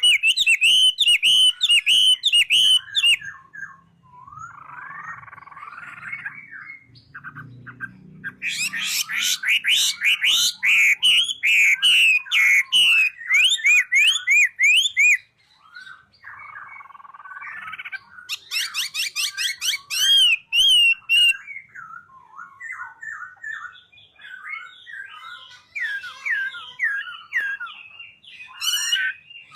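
A songbird sings in loud runs of rapid, sharp chirping and whistled notes. Between the runs are quieter, scratchy, chattering passages. The loud runs come at the start, from about 8 to 14 seconds in, around 18 to 21 seconds, and again near the end.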